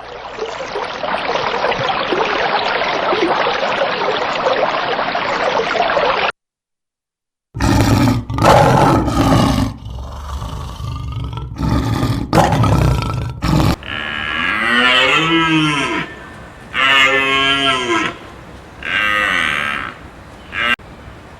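Cattle mooing repeatedly in short calls through the last seven seconds or so. Before that comes about six seconds of dense steady noise, a brief silence, and then several seconds of loud, low animal calls.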